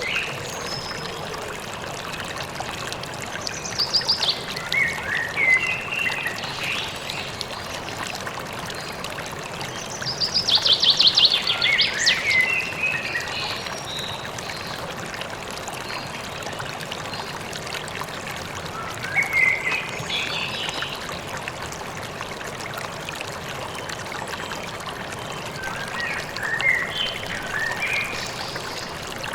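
Stream flowing steadily, with a songbird singing four separate phrases of chirps and rapid trills over it, the loudest a fast falling trill about ten seconds in.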